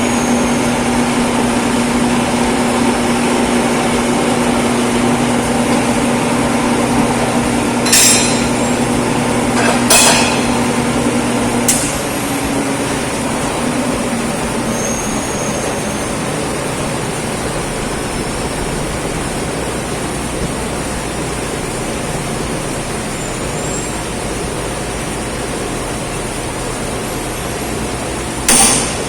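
A steady machine hum that stops about twelve seconds in, with a few sharp knocks along the way and a quick run of hammer-like knocks near the end.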